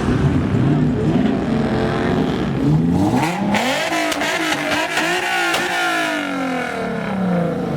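A car engine revving: its pitch climbs and falls several times in a row, most strongly from about three seconds in until near the end.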